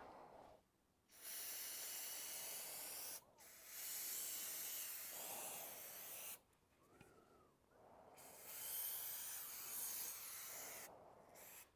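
Three long bursts of hissing spray, each lasting two to three seconds with short quiet gaps between them.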